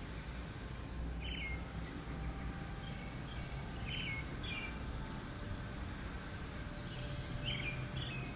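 Short bird chirps, about a second in, twice around four seconds and twice near the end, over a steady low rumble of background noise.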